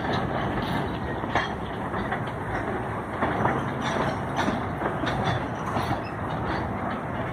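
Freight train wagons rolling past: a steady rumble of wheels on rail, broken by irregular clicks and clanks.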